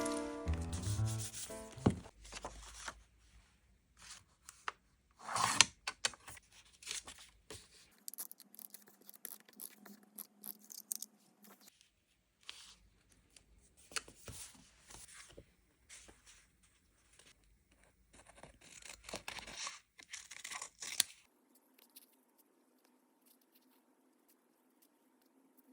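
Paper stickers and stationery being handled: irregular rubbing, rustling and tearing of paper and sticker sheets, with quiet gaps between. The tail of a short music jingle fades out in the first two seconds.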